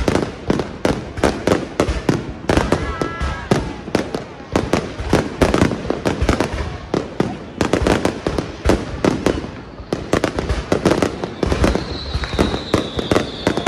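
Fireworks going off in quick succession, many sharp bangs a second without a break, from aerial shells bursting overhead. A high, steady whistling tone joins the bangs near the end.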